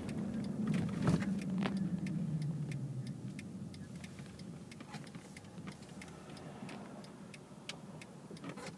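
Car engine and road noise heard from inside the car, falling in pitch and fading over the first three seconds or so as the car slows, then a quieter steady rumble, with scattered light clicks.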